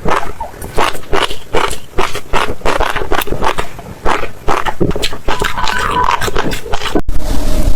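Close-miked chewing of crunchy food: irregular crisp crunches, two or three a second. The sound cuts out briefly near the end and resumes denser.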